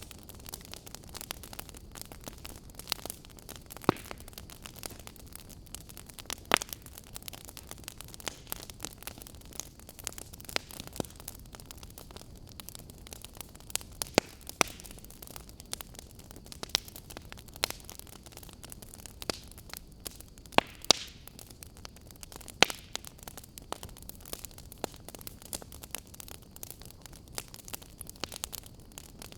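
Wood fire in a fireplace crackling: a steady soft hiss with frequent irregular sharp pops, several of them louder.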